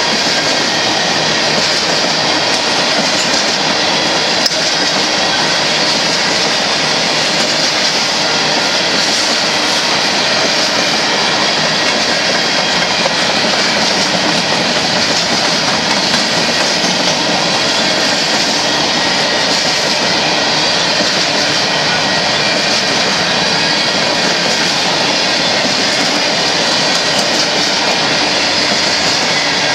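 Loaded or empty Union Pacific hopper cars rolling past, their steel wheels running on the rails in a loud, steady stream of noise.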